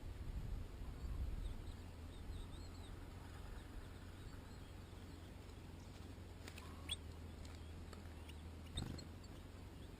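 European goldfinch giving faint, scattered twittering chirps over a steady low rumble, with a couple of sharper, brief notes about two-thirds of the way through and again near the end.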